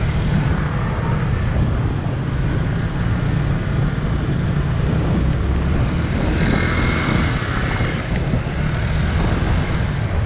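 Small motor scooter engine running with steady wind buffeting on the microphone, as heard while riding. A brief higher tone joins in about six seconds in.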